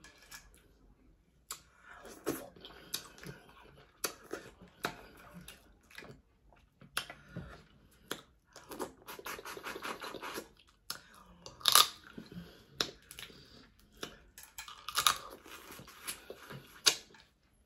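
Chewing and crunching of Dungeness crab legs, with irregular sharp cracks of shell being bitten and wet chewing between them; the loudest crack comes about twelve seconds in.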